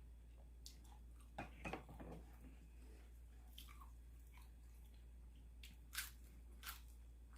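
A person chewing food quietly, with a few short crunches and mouth clicks in scattered clusters.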